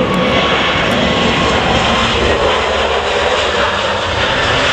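Jet airliner engines running loud and steady: a broad rush of jet noise with faint whining tones.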